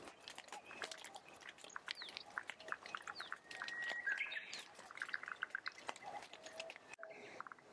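Several birds chirping and calling, with quick runs of short notes and one held whistle that rises at its end midway through.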